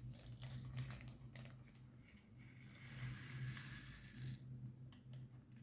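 Resin diamond-painting drills pouring and clicking into a small jar. Scattered small clicks build to a denser stream of tinkling for about a second and a half, beginning about three seconds in.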